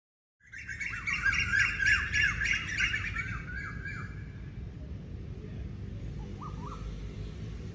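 Birds chirping: a loud run of quick, repeated falling chirps for about three seconds, then a fainter stretch with a couple of brief calls, over a steady low background rumble.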